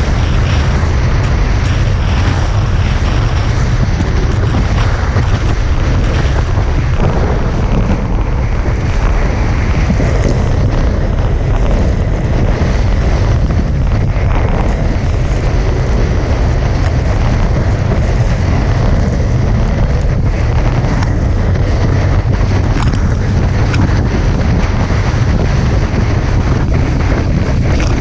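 Strong wind buffeting the action camera's microphone, a steady deep rumble, with water rushing past the hulls of a Hobie 16 catamaran sailing fast in high wind.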